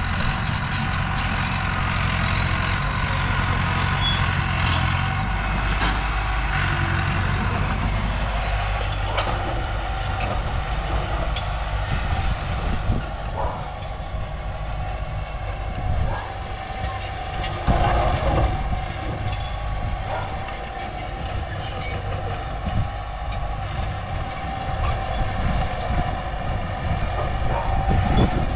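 Diesel engines of a small Komatsu crawler bulldozer and a stuck dump truck running under load, with scattered metal clanks. The low engine rumble is strongest for the first eight seconds or so, then eases and varies.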